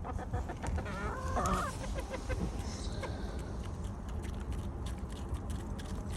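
Chickens clucking close by, with one longer, louder call a little over a second in.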